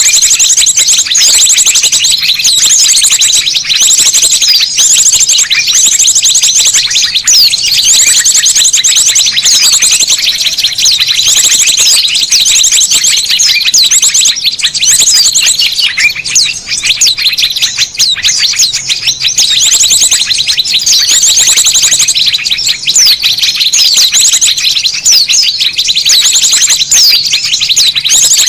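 A dense, noisy chorus of many small birds chirping and trilling at once, overlapping without a break: a bird-lure ('suara pikat') recording made to draw small birds in.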